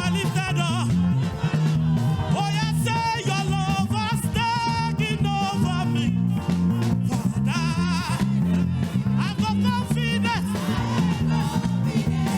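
Live praise-and-worship music: a band plays a steady groove with a prominent bass line, and voices sing over it through most of the stretch.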